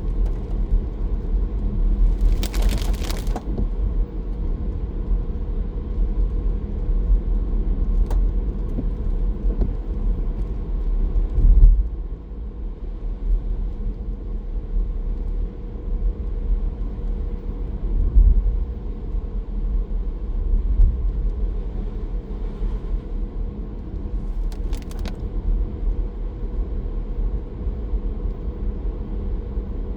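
Car driving along a road: a steady low rumble of road and engine noise, with two brief hissing swishes, one about three seconds in and one near the end.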